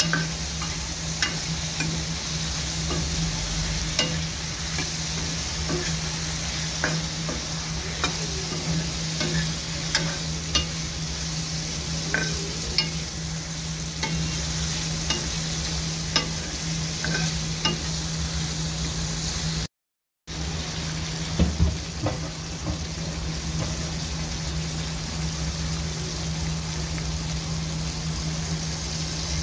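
Sliced potatoes and tomatoes frying in mustard oil in a black iron kadhai, a steady sizzle, with a steel ladle stirring and clinking against the pan every second or so. A steady low hum runs underneath, and the sound cuts out for a moment a little before two-thirds through.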